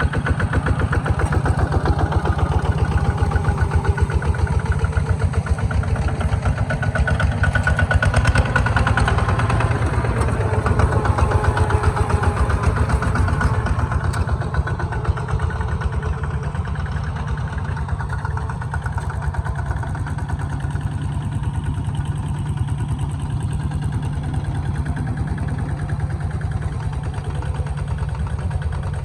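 Kubota tractor's diesel engine running steadily with a fast, even pulse, easing a little in loudness about halfway through.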